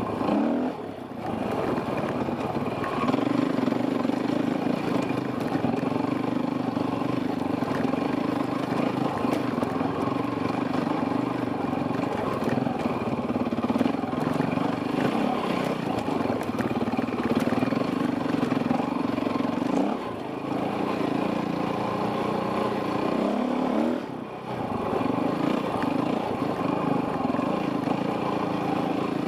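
Enduro dirt bike engine running steadily under throttle, with brief dips where the throttle is rolled off, about a second in and twice more in the last third.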